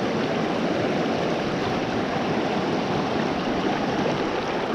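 Steady rushing of river water flowing swiftly past, an even hiss without breaks.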